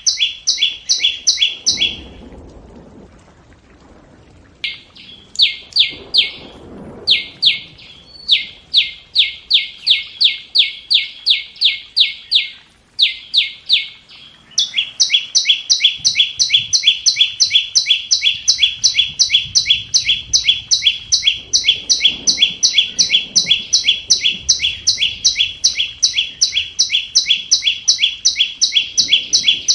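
A flowerpecker calling: long runs of sharp, high, ticking chip notes, about three to four a second. The runs are broken by short gaps in the first half, with one pause of a couple of seconds near the start, then run on without a break. This is a lure call used to draw wild birds to a trap.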